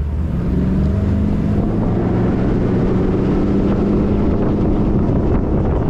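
Mercury 150 HP outboard motor running under way, its pitch rising a little just after the start and then holding steady.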